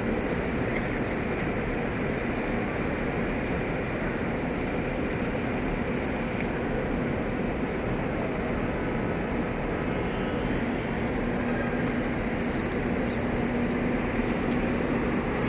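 Steady outdoor background noise, a dense rumbling hiss with a faint steady hum underneath and no distinct events.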